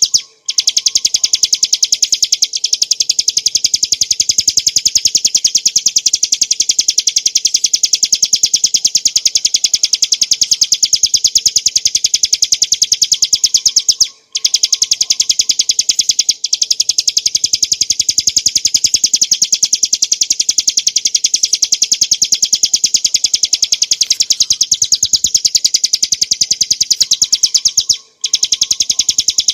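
Bar-winged prinia (ciblek gunung) singing, a fast, unbroken rattle of high, sharp notes with only brief breaks twice.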